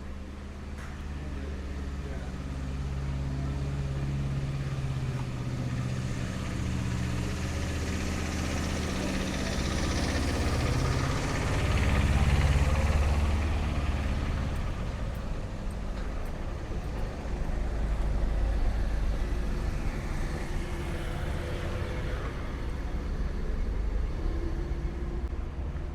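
Motor vehicle engines running close by on a street, a low engine hum with tyre and road noise that swells as a vehicle passes, loudest about twelve seconds in, with another swell a few seconds later.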